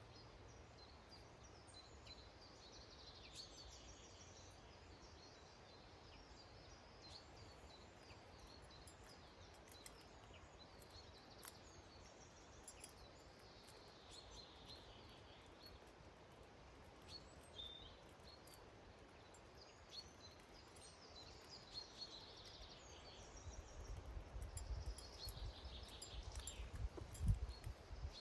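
Faint twittering calls of small garden songbirds, coming every few seconds. A low rumble rises in the last few seconds.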